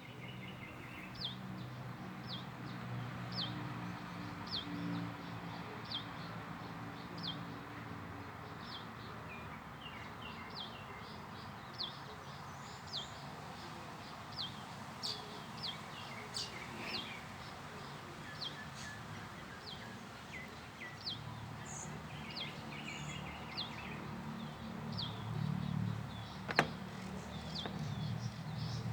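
Birds calling outdoors: one bird repeats a short, high, falling note about once a second, and other birds join in with varied chirps. A low rumble runs underneath, and a single sharp click comes near the end.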